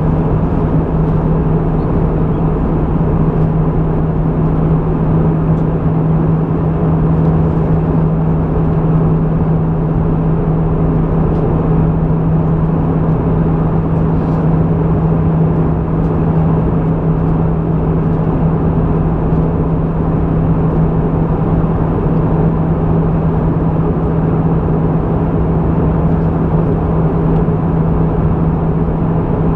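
Airbus A320 cabin noise in flight: the steady drone of the jet engines and airflow, with a constant low hum.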